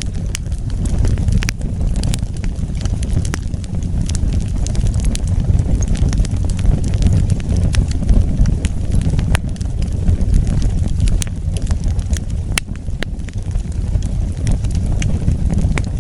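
Wood fire burning, a steady low rumble with frequent irregular crackles and sharp pops.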